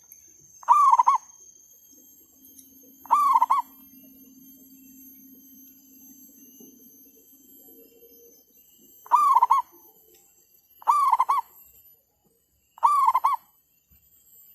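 Zebra dove cooing: five short bursts of quick staccato coo notes, each about half a second long, about a second in, after three seconds, then three more close together near the end. A faint low hum runs under the calls between the second and third bursts.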